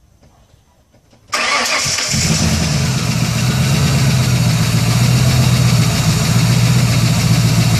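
First start of a newly built car engine in a Ford sedan: the starter cranks about a second in, the engine fires almost at once and settles into a steady idle.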